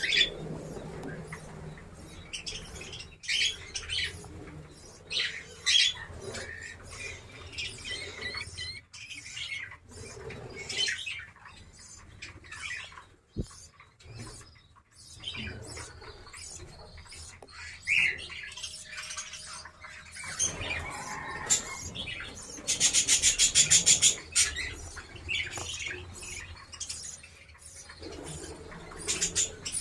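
Small pet parrots chirping and chattering in short, scattered calls, with a fast, even run of chatter lasting about a second and a half near 23 seconds in.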